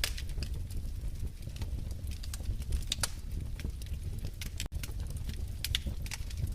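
Wood fire crackling in a fireplace: irregular sharp pops and snaps over a steady low rumble of the flames, cutting out for an instant about two-thirds of the way through.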